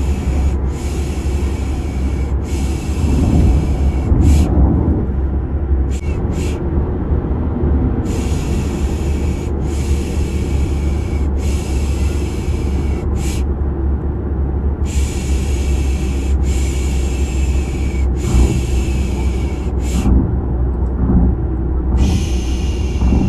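Repeated 'shhh' shushing, the 'piş piş' used to settle a baby, in runs of three long shushes followed by a short one, over a steady low car-interior drone.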